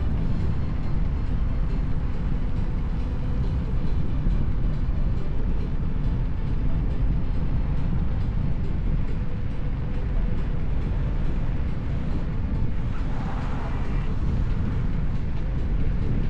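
Steady, loud wind rumble on the camera microphone from riding an electric unicycle, with a brief higher-pitched sound about thirteen seconds in.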